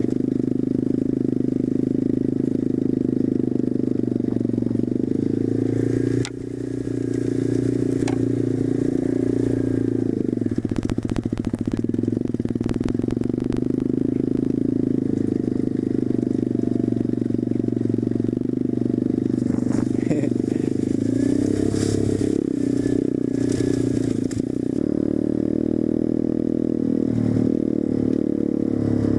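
SSR125 pit bike's small single-cylinder four-stroke engine running as it is ridden, its pitch shifting with the throttle. Level dips briefly about six seconds in, and a burst of rattling clatter comes around ten to thirteen seconds in.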